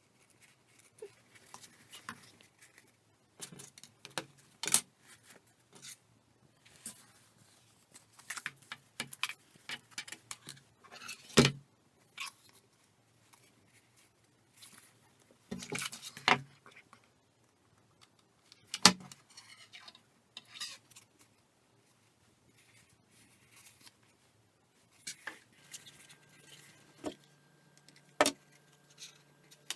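Paper craft being worked by hand: irregular snips, taps and rustles of scissors and paper, with a few sharp snaps. A faint steady hum comes in near the end.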